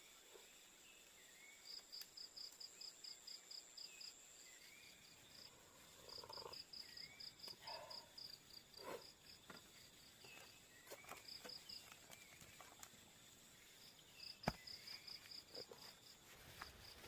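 Insects chirping faintly: high pulsed chirps of about five pulses a second, coming in bouts of about two seconds, over a steady high buzz. A short rising call repeats about once a second. A few soft knocks sound in the middle, and one sharp click comes near the end.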